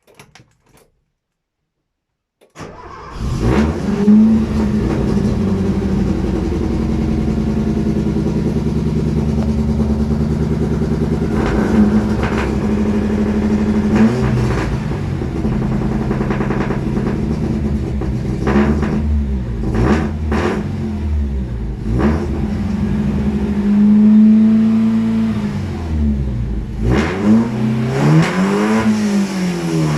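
Volvo 340 engine on a cold start: it cranks and catches about two and a half seconds in, then idles steadily. From about twelve seconds it is revved in a series of short blips, with two longer revs near the end.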